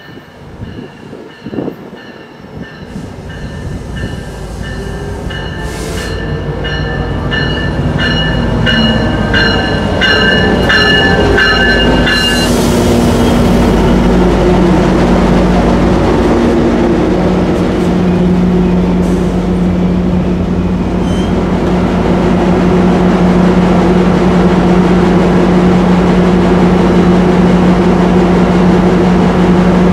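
Amtrak Pacific Surfliner train arriving and braking: a high ringing squeal that pulses about twice a second for the first dozen seconds, then a short hiss about twelve seconds in. After that the F59PHI diesel locomotive's engine runs with a loud, steady hum as it draws up close.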